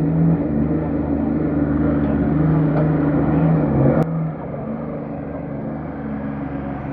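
4WD vehicle's engine running steadily under load, with a sharp click about four seconds in after which it drops to a quieter, lower level.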